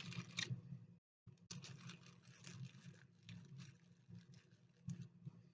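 Faint handling noise: small parts clicking and rustling now and then over a low steady hum.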